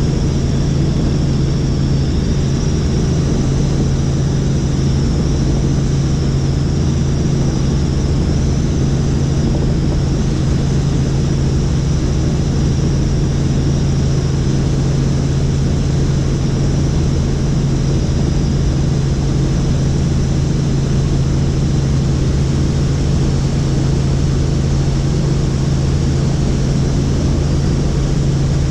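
Helicopter in flight: a steady, loud drone of rotor and engine with a faint high whine over it.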